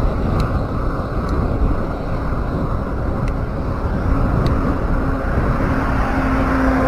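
Wind rushing over the microphone and road rumble while riding a bicycle, with a few faint ticks. A low steady hum grows in over the last couple of seconds.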